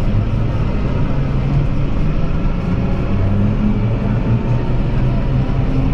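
Tractor engine running steadily, its pitch drifting slightly up and down.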